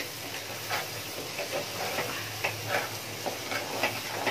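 Onion-tomato masala sizzling in oil in a pan while it is stirred, the utensil scraping the pan in short, irregular strokes over a steady hiss. The oil has separated from the masala, the sign that it is fully fried.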